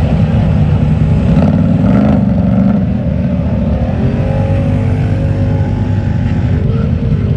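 Mud truck engines running, a loud steady rumble.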